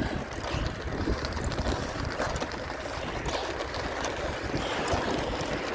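Steady rumbling noise of riding a scooter along the street, with wind buffeting the microphone.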